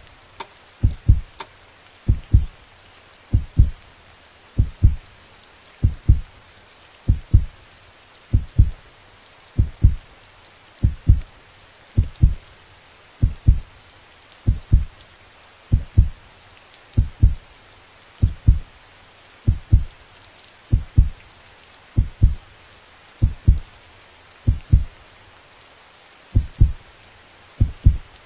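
Heartbeat sound effect: a slow, steady lub-dub, each beat a pair of deep thumps, a little slower than one a second, over a steady hiss like rain.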